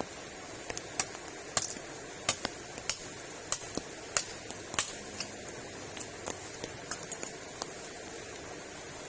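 Steady rain hiss with irregular sharp taps and ticks, sometimes several a second, thinning out after about five seconds.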